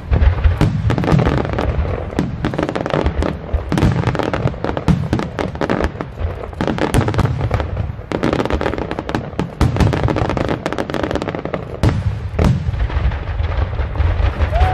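Fireworks display: aerial shells bursting one after another, a dense run of booms and sharp reports with a continuous low rumble.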